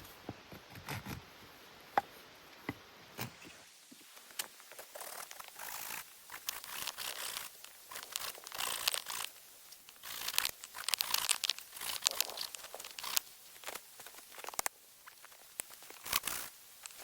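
Knife whittling a wooden stick into a camp fork: a few sharp clicks, then from about four seconds in, rapid, irregular scraping strokes of the blade on the wood.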